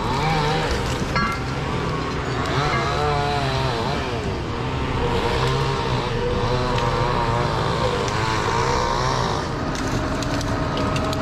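A motor vehicle's engine running, with steady road noise.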